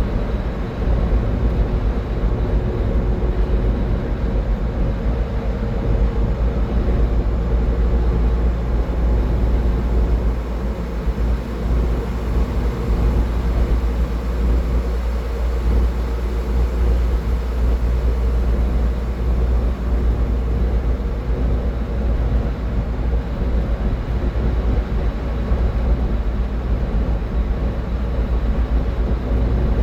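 A car driving at highway speed: steady road and tyre noise with a deep low rumble and a constant engine hum.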